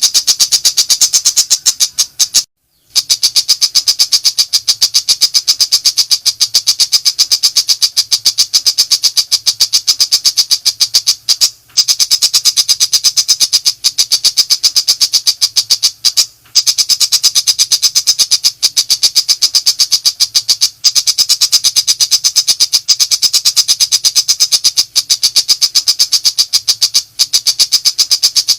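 Pentet macan shrike giving a long, rapid 'nembak' rattle of high, dry notes fired in quick succession. The rattle breaks off briefly about four or five times and starts again at once.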